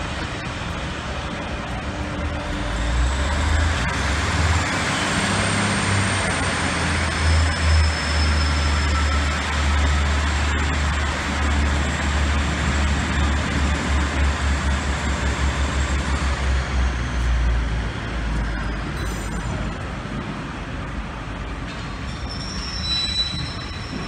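Passenger coaches of a train rolling past on the rails: a steady low rumble with a rhythmic clatter from the wheels, and a faint high-pitched wheel squeal on and off.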